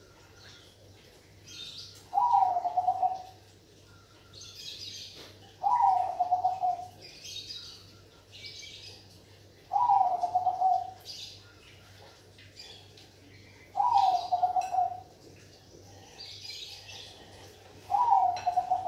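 Zebra dove (perkutut Bangkok) cooing: five repeated warbling coos, each about a second long and dropping a little in pitch at the start, roughly every four seconds. Fainter high chirps from other birds fall between the coos, over a faint steady hum.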